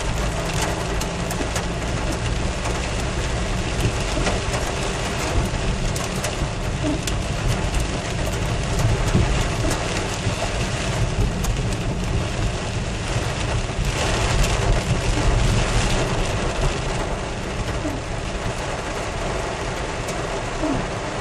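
Heavy rain pelting a vehicle, with many sharp drop impacts, over the steady low rumble of the engine and tyres on the wet road.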